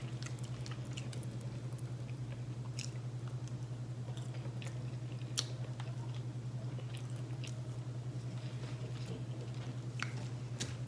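Close-miked chewing of breaded chicken, soft and wet, with a few sharp clicks scattered through, over a steady low hum.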